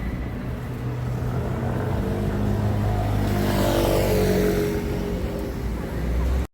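Steady low traffic rumble, with a motor vehicle passing close by about three to four seconds in, its engine note falling in pitch as it goes past. The sound cuts off suddenly at the end.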